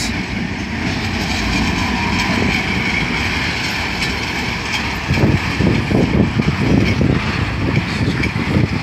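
Freightliner Class 66 diesel locomotive, with its two-stroke V12 engine, passing at the head of a container freight train; then loaded container wagons rolling by, their wheels rumbling and clattering more irregularly from about five seconds in.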